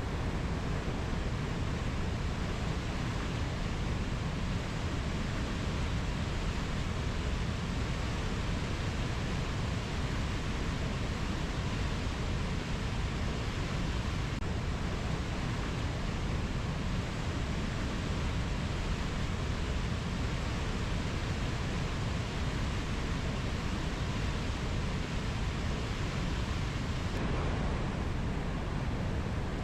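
Steady, even rushing noise of rainforest ambience, heaviest in the low end, with no distinct calls or knocks. Its tone shifts slightly near the end.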